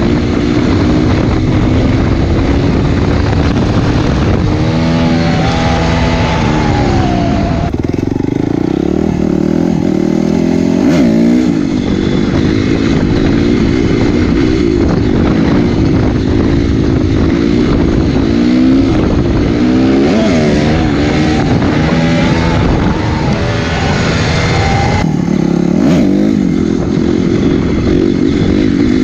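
Honda CRF250R's single-cylinder four-stroke engine revving under throttle while the bike is ridden on its back wheel, its pitch climbing through the gears and falling off a few times.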